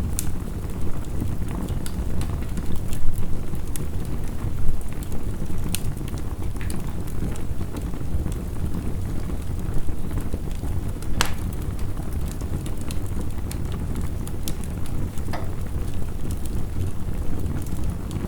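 Wood fire crackling, with scattered sharp pops, the loudest about halfway through, over a steady dense rumble of heavy rain.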